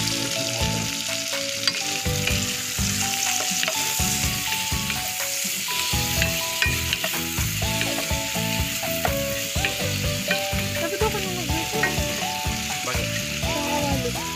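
Whole shrimp and garlic frying in a stainless steel pot, sizzling steadily, while a wooden spatula stirs them with small knocks and scrapes against the pot.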